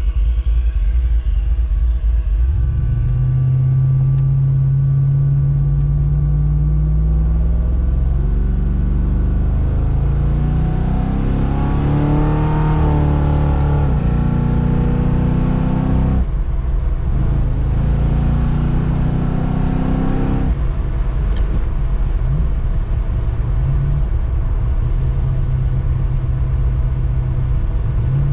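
Car engine pulling under acceleration, its revs climbing and then dropping sharply at gear changes about halfway through and again a few seconds later, then running steadier.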